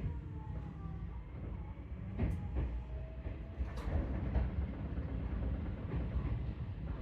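Seibu 4000 series train rolling slowly over pointwork into a turnback siding, heard from on board: a steady low rumble of wheels on rail with two sharp clicks a second and a half apart as the wheels cross rail joints.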